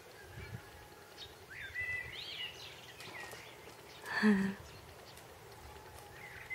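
Songbirds chirping and warbling in the trees, short rising and falling calls. About four seconds in there is one brief, louder low sound.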